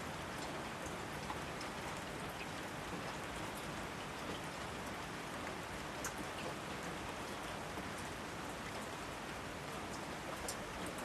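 Steady rain falling, with individual drops ticking here and there over an even hiss.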